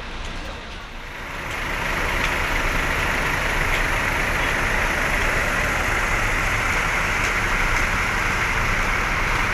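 A bus engine running close by, growing louder about a second and a half in and then holding steady, with a low rumble under a strong hiss.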